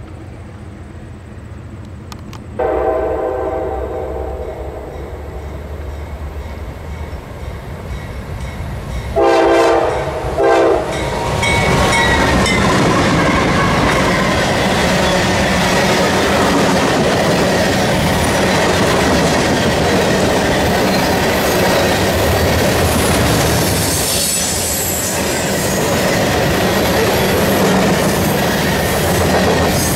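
Horn of a CSX freight train's lead GE C40-8W locomotive: a long blast a few seconds in, then a louder long blast and a short one around ten seconds. The locomotives and freight cars then pass close by with steady rumble, wheels clicking over the rail joints and some high wheel squeal.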